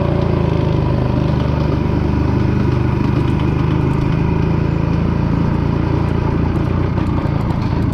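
A 197cc Villiers two-stroke single in a Francis Barnett Falcon 200 motorcycle, running steadily through a noisy exhaust. The owner says it is not running right and puts this down to a carburettor that needs sorting out.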